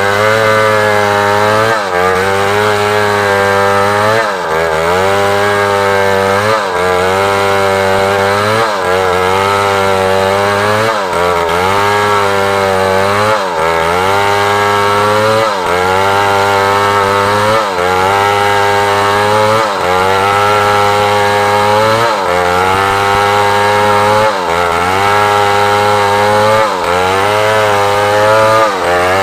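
Large chainsaw running at full throttle while cutting African wood lengthwise into rafters, its engine pitch dipping under load and picking back up about every two seconds.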